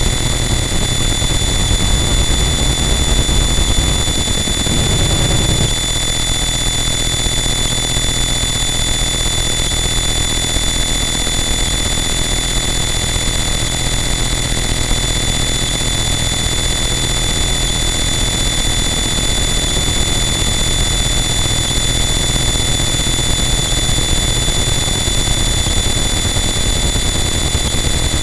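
Harsh noise wall: a loud, static wall of dense distorted noise with steady high-pitched whistling tones layered on top. The texture shifts briefly about five seconds in.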